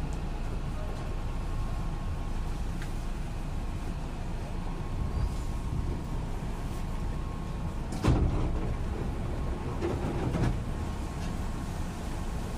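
Hankyu 8000-series electric train running, heard from inside the car: a steady low rumble with a faint steady whine, broken by a sharp clank about eight seconds in and another cluster of clanks about ten seconds in.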